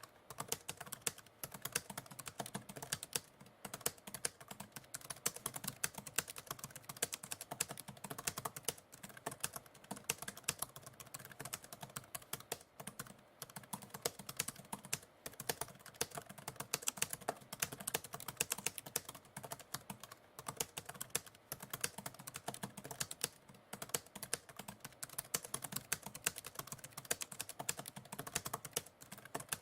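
Continuous typing on a computer keyboard: a dense, irregular patter of key clicks with only brief pauses.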